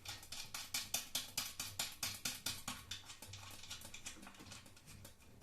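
Fast, even clicking of a ratcheting hand tool turning a screw, about five clicks a second, fading out after about three and a half seconds.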